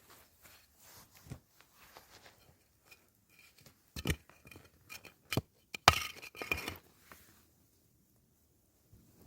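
Cookware and utensils being handled: light taps and scrapes, then a cluster of sharp clinks with a brief ringing tone around the middle.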